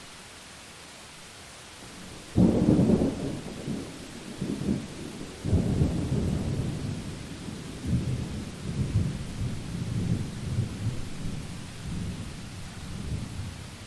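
Thunder during a rainstorm: a sudden crack about two seconds in breaks into a long rolling rumble that swells twice more and fades out near the end, over a steady hiss of rain.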